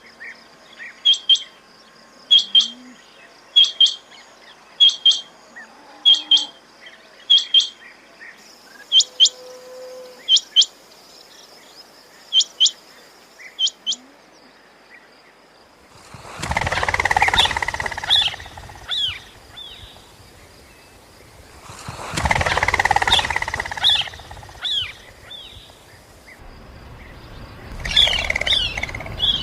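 Quail calling: short, sharp, high notes repeated about once a second. Later comes a different stretch of three bursts of quick chirps over a rushing noise.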